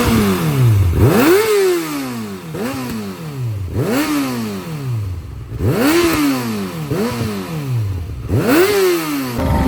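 Kawasaki ZX-6R sport bike's inline-four engine being revved in quick blips, about seven times, each rev rising sharply in pitch and then falling away slowly as the throttle is released.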